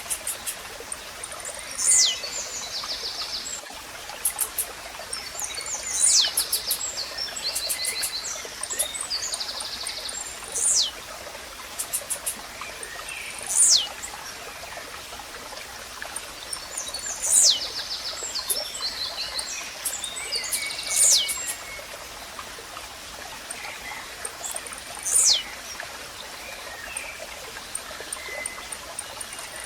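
Blue-black grassquit (tizil) repeating its short, sharp song, a high note sweeping steeply down, about every three to four seconds. Between the songs, other small birds give faint rapid trills over the steady rush of a stream.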